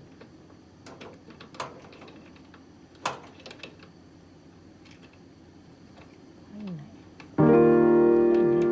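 Scattered small clicks and taps of parts and screws being handled while a kerosene fan heater is taken apart. About seven seconds in, a loud ringing chord of several pitches starts suddenly and slowly fades.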